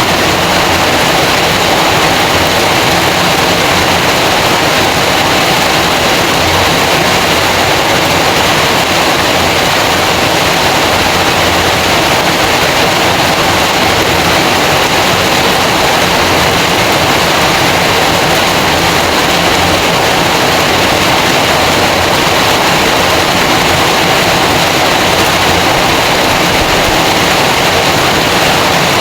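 Heavy rain falling, a loud, steady rushing noise that holds unchanged throughout.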